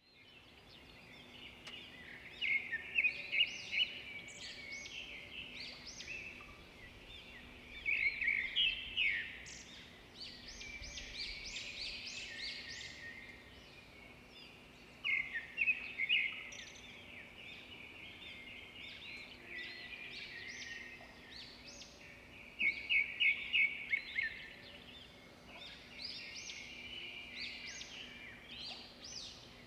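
Birds chirping and trilling in bouts every few seconds, each bout a quick run of short high notes, over a faint steady hum.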